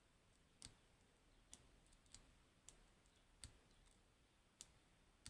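Faint, sharp clicks, about seven of them at uneven intervals, from small metal lock parts and the disassembled core being handled, over an otherwise near-silent background.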